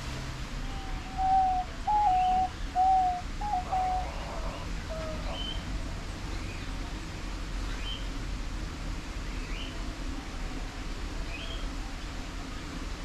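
Wild birds calling, with short rising chirps every second or two. From about one to five seconds in, a louder run of low, steady notes that step slightly up and down stands out.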